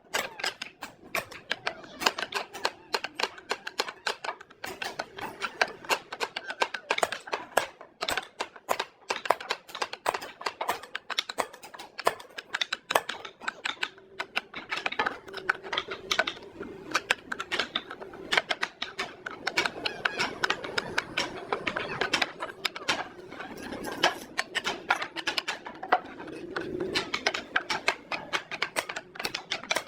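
Rapid, irregular tapping and clicking, several sharp knocks a second.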